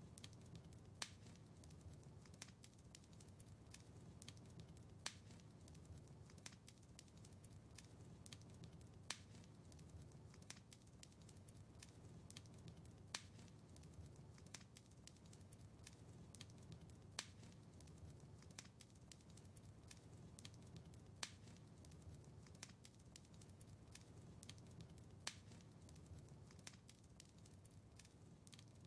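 Wood fire in a fireplace crackling: frequent small snaps and ticks over a soft low rumble, with a louder pop about every four seconds.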